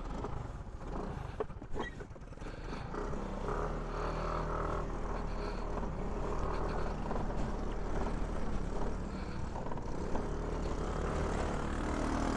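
Aprilia SR150 scooter's single-cylinder engine running as the scooter moves off, after a few sharp clicks in the first two seconds. The engine sound builds gradually louder.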